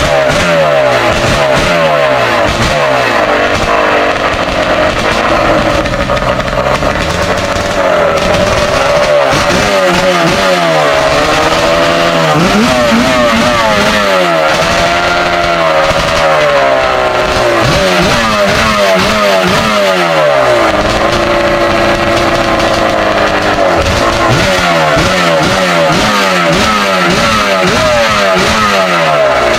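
550cc two-stroke jet-ski engine with an expansion-chamber exhaust, powering a racing boat and running hard. Its pitch rises and falls again and again as the revs change.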